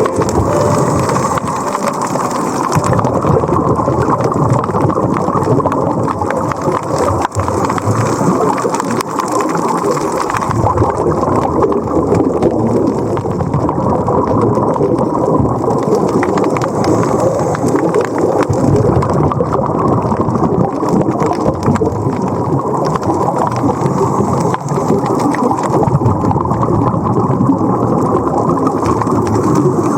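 Steady, dense water noise: a crackling rush with most of its weight in the low and middle range.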